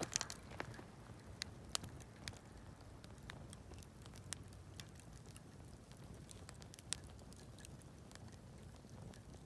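Wood campfire crackling: sparse sharp pops and snaps from the burning wood, a quick cluster of them at the start and then single pops every second or so, over a low steady rumble.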